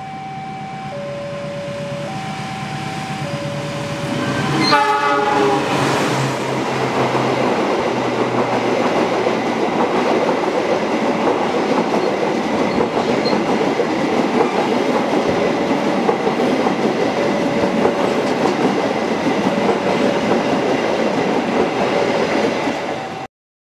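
A CC 206 (GE CM20EMP) diesel locomotive approaches and passes close by, with a short horn blast about five seconds in, then the loud rush and clatter of its stainless-steel coaches going past. A level crossing's alternating two-tone alarm sounds underneath. The sound cuts off suddenly near the end.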